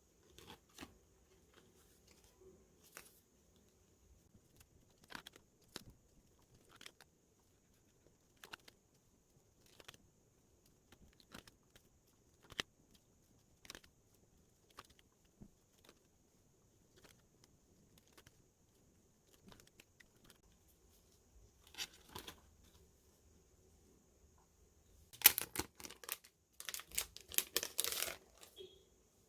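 Packaging being unboxed by hand: scattered light taps and rustles as items are handled, then a few seconds of loud crinkling and tearing near the end, as of plastic wrap or paper being torn open.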